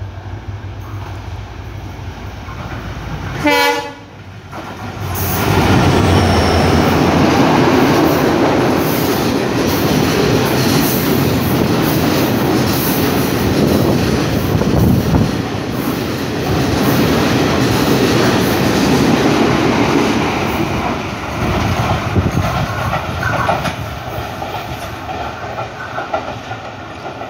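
A WDG4D diesel locomotive approaches with a low rumble and sounds a short horn blast about three and a half seconds in. Then a long freight train of container wagons passes close by, its wheels clattering rhythmically over the rail joints, easing off a little near the end.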